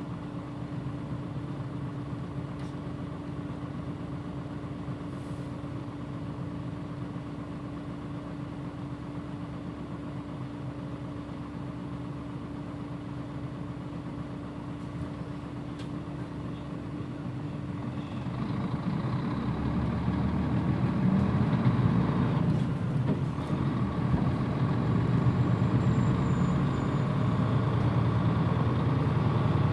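Mitsubishi Fuso Aero Star city bus's diesel engine idling with a steady hum. About 18 seconds in, the engine note grows louder and fuller as the bus moves off and accelerates.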